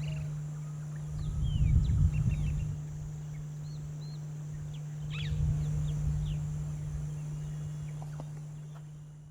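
Birds giving short chirps and brief gliding whistled notes over a steady low hum, with two swells of low rumbling noise, about a second and a half in and about five seconds in. The sound fades out near the end.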